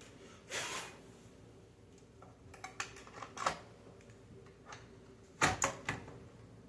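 Light clicks and knocks of an opened Xbox Series S's motherboard and plastic casing being handled during disassembly, with a soft swish just after the start and the loudest cluster of knocks about five and a half seconds in.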